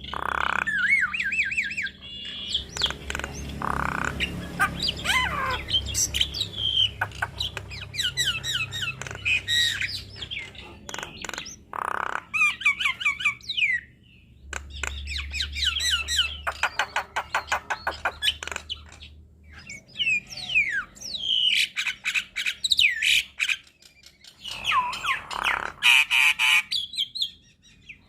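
Javan myna singing a long, varied song: quick whistled slides, harsh squawks and chattering rattles, with a couple of short pauses.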